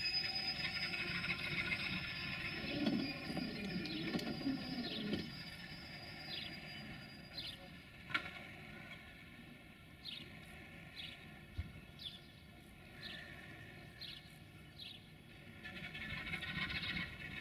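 Train noise, a low rumble with rail sounds, dying away over the first five seconds, then birds chirping in short falling calls over a quiet background, with engine noise building again near the end.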